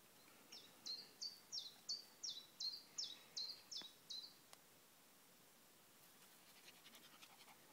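A bird calling: a run of about eleven short, high notes, roughly three a second, each sliding quickly down in pitch. Near the end there is faint, rapid scratchy clicking.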